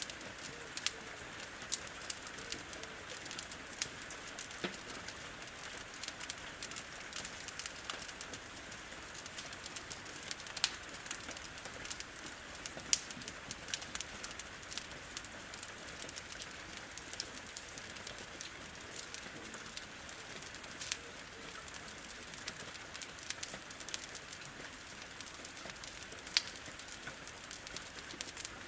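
Steady rain hiss with a wood fire crackling and popping in irregular sharp snaps throughout.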